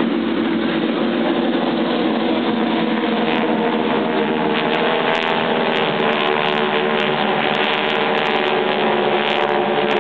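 Aircraft engine running steadily, a constant drone with a few steady tones in it that holds an even level throughout.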